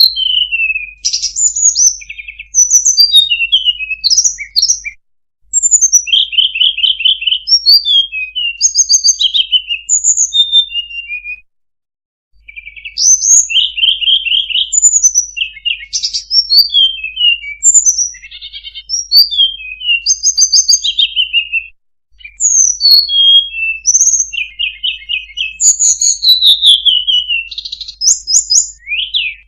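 Sulingan (tledekan) songbird song, played as a lure call: loud phrases of rapid trills and downward-sliding whistles, one after another, with brief pauses about five, twelve and twenty-two seconds in.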